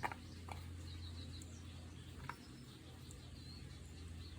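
Quiet room tone with a steady low hum, faint high bird chirps now and then, and a few soft clicks, the sharpest right at the start.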